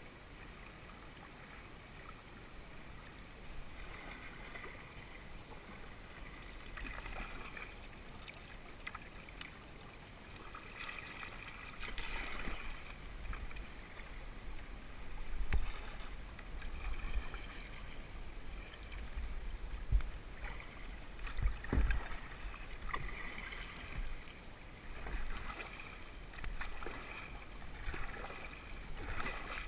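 Kayak paddle strokes dipping and splashing in river water, repeating every second or two, with wind rumbling on the microphone and a few sharp knocks.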